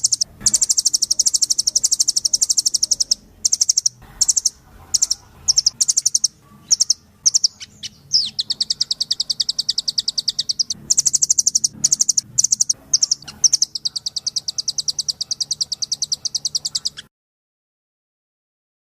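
Recorded songbird calls from a masteran training track: long, very fast high trills broken by short chirps and brief pauses. The sound cuts off suddenly about 17 seconds in.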